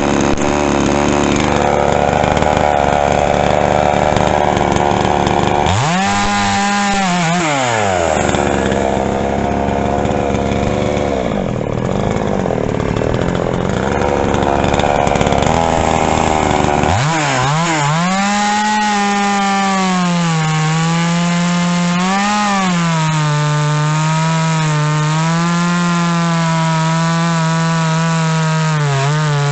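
Pinkway 63cc two-stroke chainsaw running. It is revved up and back down at about six seconds, then from about two-thirds of the way in it is held at high revs, its pitch wavering as it cuts wood.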